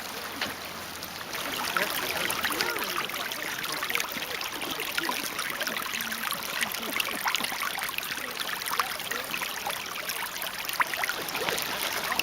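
Water running and bubbling in a geothermal hot-spring area, a dense crackling rush that swells about a second and a half in and then holds steady, with faint voices in the background.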